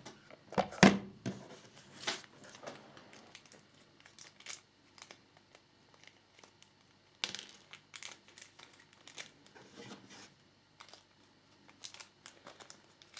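Crinkling of small plastic parts bags being handled and rummaged through, with scattered light clicks and taps of small parts, the sharpest about a second in and about seven seconds in.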